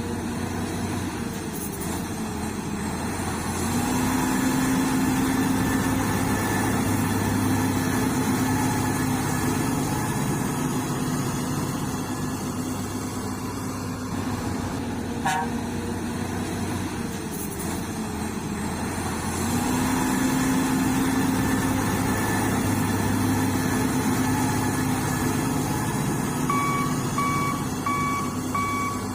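Recorded heavy-truck engine sound running steadily, rising in level now and then and repeating as a loop about every fifteen seconds. A series of reversing beeps starts near the end.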